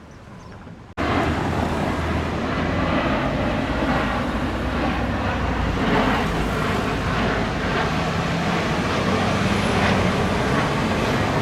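Steady road traffic noise of cars and a low engine rumble, starting abruptly about a second in.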